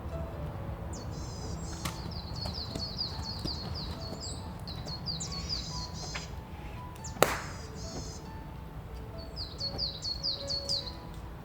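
A small songbird singing phrases of quick, high, falling notes, twice, over soft background music. A single sharp click sounds about seven seconds in.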